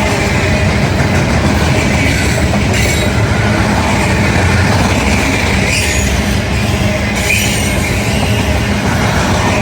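Freight train passing close by, its cars' wheels rolling over the rails in a loud, steady rumble. A faint high squeal of wheels against rail and a few brief clicks come through it.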